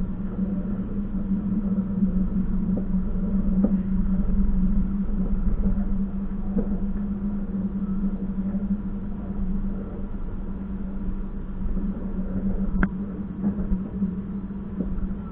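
Passenger train running, heard on board: a steady rumble with a low hum, a few light clicks, and one sharp knock about 13 seconds in.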